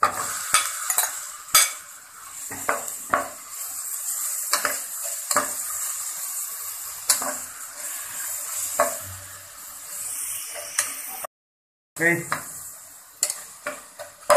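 Ground beef with onion and garlic sizzling in a pan while a utensil stirs it, with repeated scraping and clicks against the pan. The sound cuts out completely for under a second near the end.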